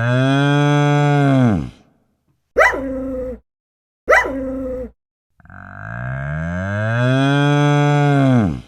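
A cow mooing: a long, low moo that tails off in pitch, then two short, higher calls, then another long moo.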